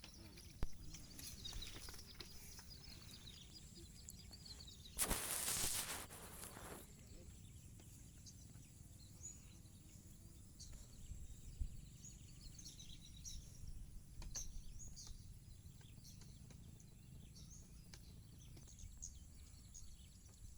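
Small birds chirping in short repeated calls, mostly in the second half, over a steady low outdoor rumble. A loud rush of noise about five seconds in lasts under two seconds.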